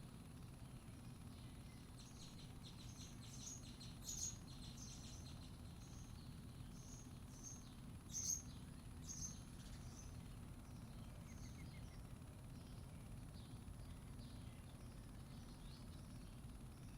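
Small birds chirping in quick runs of short, high calls. The chirps start about two seconds in, are loudest around the middle, and thin out in the second half, over a faint steady low rumble.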